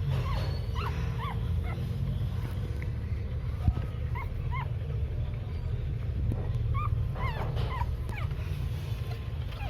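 Dog whimpering: short, high cries that rise and fall, coming a few at a time, over a steady low rumble. A single sharp knock about three and a half seconds in.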